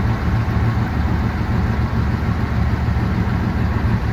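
1953 Dodge Red Ram Hemi V8, fed by three carburetors, idling steadily, warmed up after about fifteen minutes of running.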